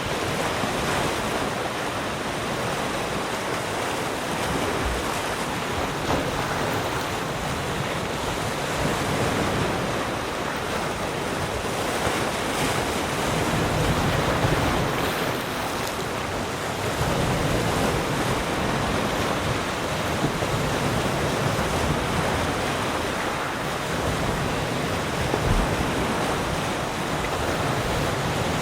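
Ocean waves breaking and washing onto a shore, a continuous rushing surf that swells and eases every several seconds.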